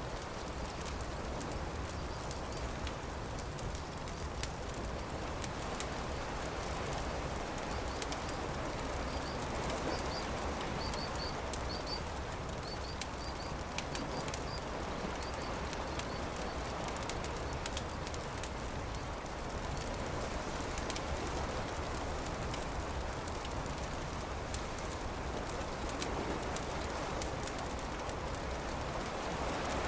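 Campfire crackling, with small pops scattered over a steady rushing noise. A bird chirps a few times between about ten and fifteen seconds in.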